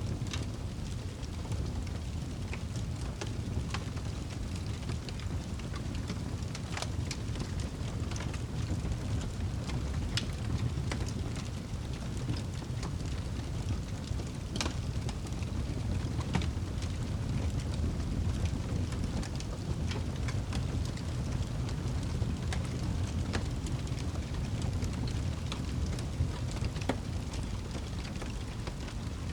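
Wood fire burning in a fireplace: a steady low rumble of flames, with scattered sharp crackles and pops from the burning logs.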